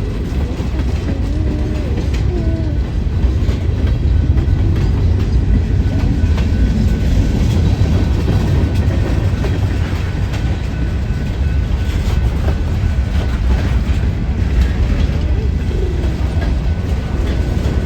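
A train passing close by: a continuous heavy rumble of wheels on rail with irregular clicks from the rail joints.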